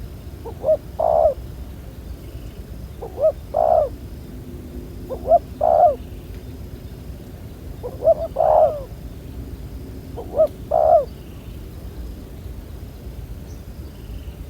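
Spotted dove cooing: five repeated phrases, about one every two to two and a half seconds, each a short note followed by a longer one.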